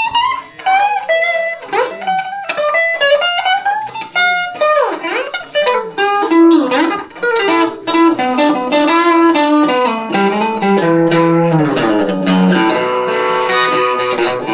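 Electric guitar, a Telecaster played through a Roland JC-120 amp, playing a blues passage. It opens with gliding, bent notes, then turns to fast repeated notes and chords from about six seconds in.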